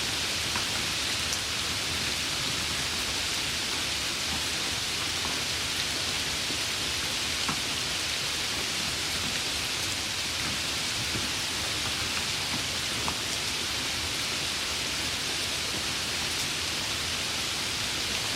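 Steady rain falling, a dense even patter with a few sharper drops standing out here and there.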